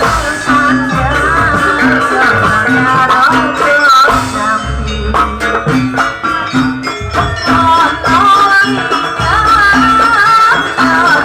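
Live traditional mocoan ensemble music. A wavering lead melody runs over dense drumming, a short low pitched note repeats about twice a second, and there is a shaker-like rattle.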